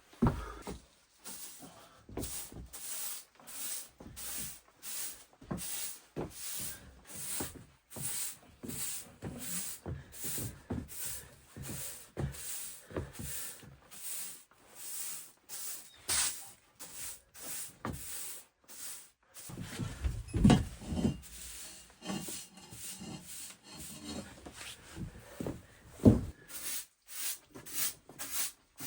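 Steady back-and-forth scraping strokes, nearly two a second, with a few heavier knocks about two-thirds of the way through and again near the end.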